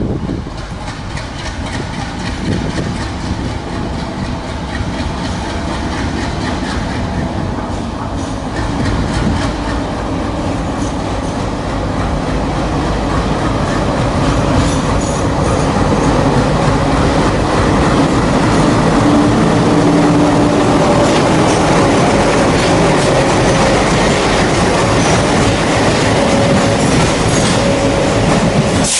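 Train pulling into the station, growing louder as it comes in, its wheels clattering over the rail joints, with faint squealing of the wheels in the second half.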